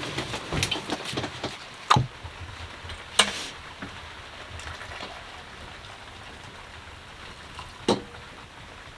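Steady heavy rain falling on the sailboat's cabin roof, with a few sharp knocks and clatters, one about two seconds in, a louder one about three seconds in, and another near the end.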